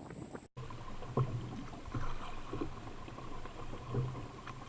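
Canoe paddling on choppy water: soft paddle strokes dipping and splashing, with a faint knock about every second and a half, over a low steady water noise.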